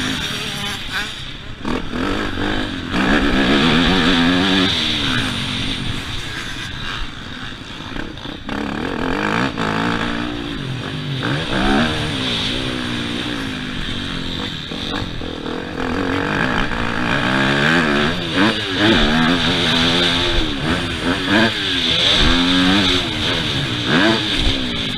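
Yamaha YZF 250 four-stroke motocross bike engine revving up and dropping off again and again as the throttle is opened and closed around the track, its pitch climbing and falling every second or two.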